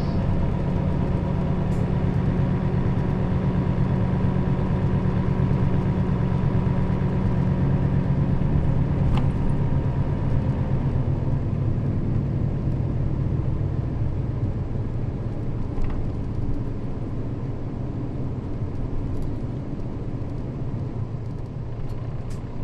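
Nissan Diesel KL-RA552RBN route bus engine running under way, heard from inside the cabin: a steady low drone, loudest for the first half, then easing off and quieter, with a couple of faint clicks.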